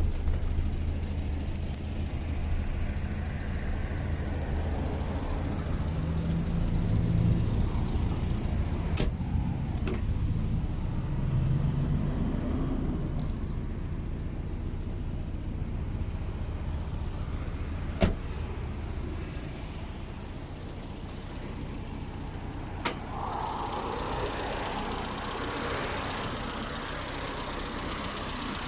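Toyota KP61 Starlet's four-cylinder engine, breathing through Solex carburettors and an aftermarket muffler, idling with a steady low hum and briefly revved twice in the first half. A few sharp clicks come through, and a broad hiss joins in for the last few seconds.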